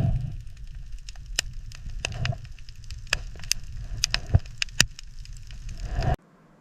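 Irregular sharp cracks and snaps over a low rumble, cutting off abruptly near the end.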